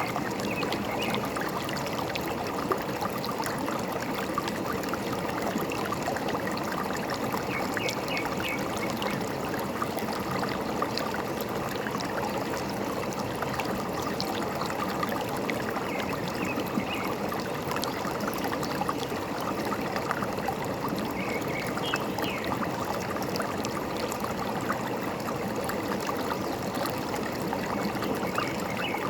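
Forest stream running and trickling steadily, with a few faint bird chirps now and then.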